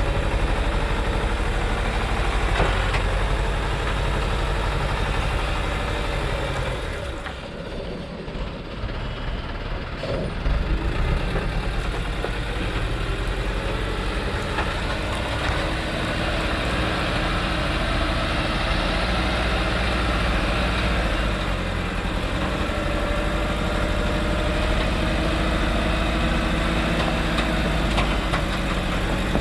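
Diesel engine of a loaded Thaco truck running steadily on a downhill stretch with curves. About seven seconds in the engine sound drops quieter for a few seconds, then comes back up and runs on.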